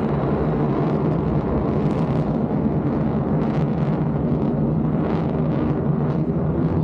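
Steady rumbling roar of a military jet's engine during an air show demonstration, holding at an even level without a clear rise or fall.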